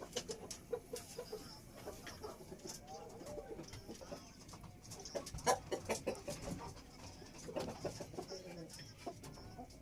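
Birds calling: short low calls repeated several times early on and scattered calls later, with a few sharp clicks about five and a half seconds in.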